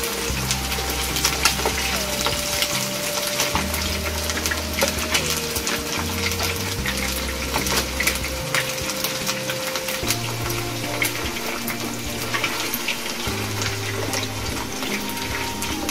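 Chicken drumsticks frying in a pan of hot oil, still pale and not yet browned: a steady sizzle with dense crackling and spitting. Background music with sustained notes plays underneath.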